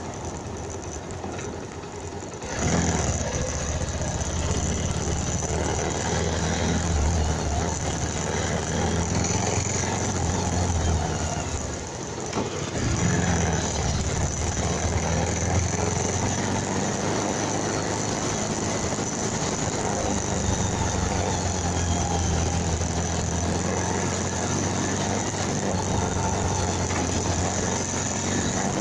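Motorcycle engine running steadily with a low hum, mixed with road and wind noise. It gets noticeably louder about two and a half seconds in and dips briefly around twelve seconds.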